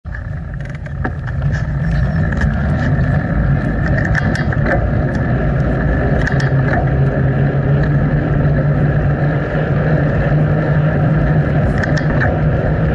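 Steady wind and road noise on a bicycle-mounted action camera while riding, with scattered light clicks and rattles. The noise builds over the first two seconds, then holds steady.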